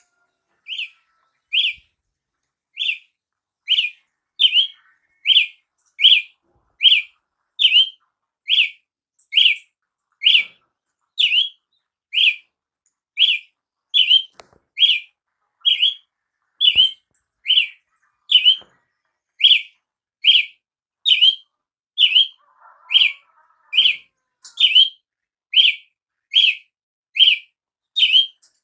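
Brazilian tanager (tiê-sangue) calling: one short, sharp note repeated steadily, about three every two seconds, the first few more widely spaced.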